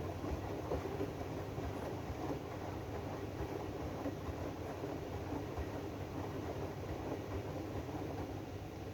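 AEG DualSense washing machine running its 95 °C Drum Clean programme: a steady rumble of the drum turning and the motor, with a faint steady hum.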